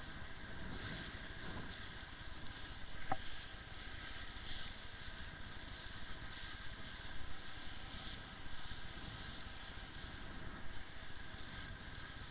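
Umpire motorboat underway: its engine running steadily under a hissing rush of water and air. There is a brief click about three seconds in.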